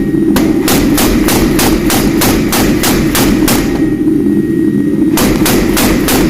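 Hammer blows on steel being forged for knife blades: rapid, even strikes about four a second, stopping for about a second and a half near the middle and then starting again. A steady low drone runs underneath.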